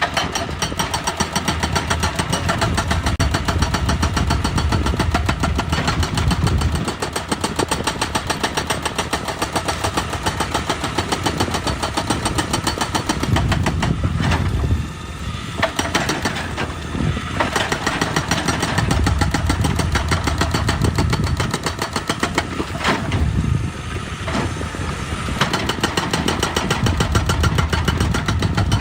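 Excavator's diesel engine running steadily, its low rumble swelling and easing several times as the machine works.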